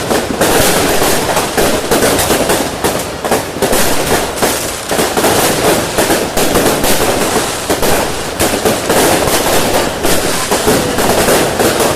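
New Year's fireworks going off in a dense, continuous barrage of bangs and crackles, with no break.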